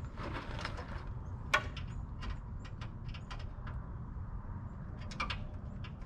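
Scattered small metallic clicks and taps of hand work on a brake line and its fittings, with one sharp knock about a second and a half in and a quick cluster of clicks near the end, over a steady low rumble.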